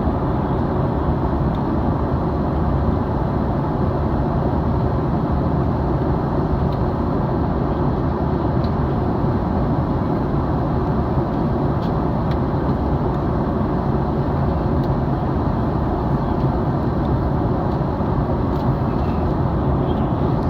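Steady cabin noise of an Airbus A310-304 in flight, heard inside the passenger cabin: the rush of its two General Electric CF6-80C2 turbofans and the airflow over the fuselage, with a faint steady hum.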